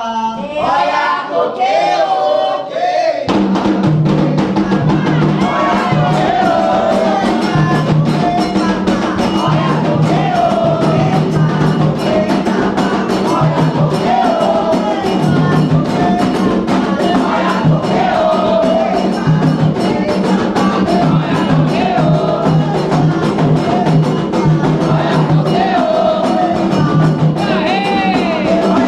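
Candomblé music for Oyá: singing voices, joined about three seconds in by a rhythm on atabaque hand drums that keeps up steadily under the song.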